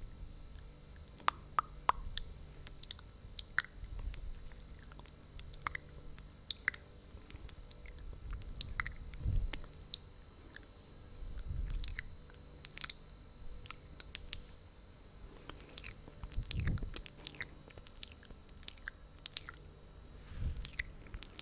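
Close-up wet mouth sounds from lips coated in thick lip gloss: sticky lips smacking and pulling apart in irregular, sharp little clicks and snaps, with a few soft low thumps.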